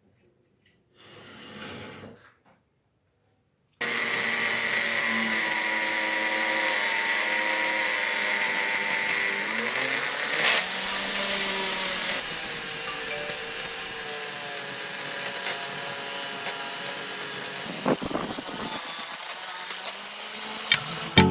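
A power tool running steadily, starting abruptly about four seconds in after near silence.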